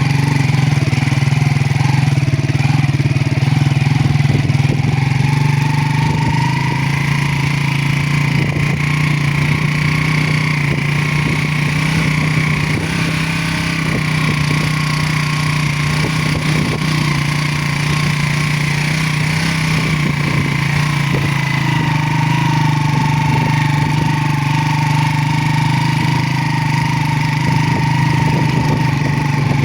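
Motorcycle engine running at a steady speed while riding, with a constant low hum and a whine that shifts slightly in pitch now and then.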